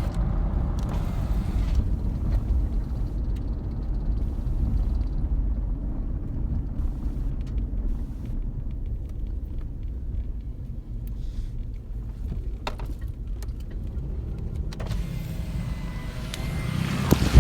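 2006 Jeep Commander's 3.7-litre V6 running with a steady low rumble and a faint high tone for the first few seconds. This is the rumbling and squeal the owner reports under acceleration, cause not yet known.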